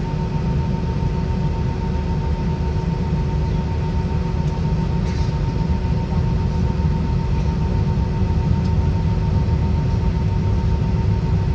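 Steady cabin noise inside an Airbus A320 with IAE V2500 engines: a constant low rumble with two steady hums, one low and one higher, and a few faint ticks.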